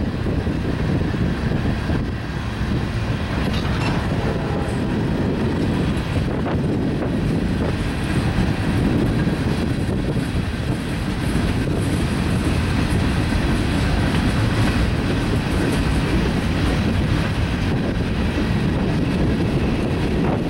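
Freight train of boxcars and covered hopper cars rolling steadily past: a continuous low rumble of steel wheels on rail, with faint clicks as the wheels cross rail joints.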